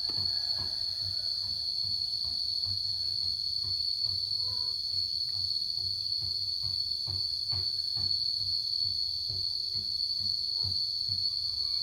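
Steady high-pitched insect chorus, with irregular soft taps and knocks scattered throughout.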